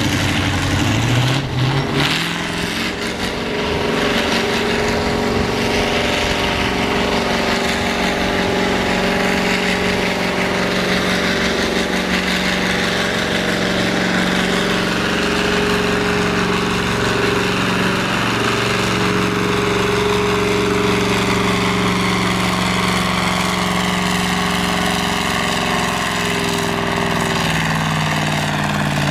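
Naturally aspirated pulling tractor's engine winding up over the first couple of seconds, then held at high revs for a long, steady pull, its pitch sagging slightly near the end.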